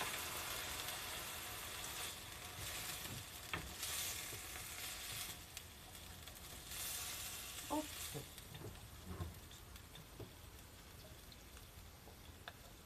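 Pork, garland chrysanthemum and bean sprouts sizzling in a frying pan as they are stir-fried with chopsticks. The hiss surges louder a few times as the food is tossed, with a few light knocks, and the sizzle dies down toward the end.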